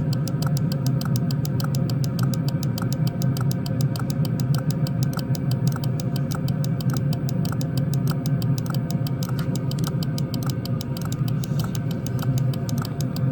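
Chinese diesel air heater running on its low setting: a steady hum from the combustion blower with the dosing fuel pump ticking evenly, about three times a second.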